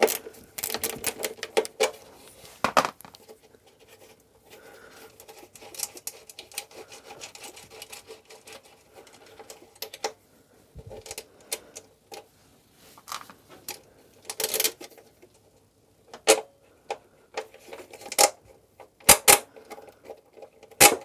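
Socket ratchet clicking as a small 8 mm bolt is undone, with scattered metallic clinks and knocks of tools and parts being handled. The clicking is densest over the first few seconds.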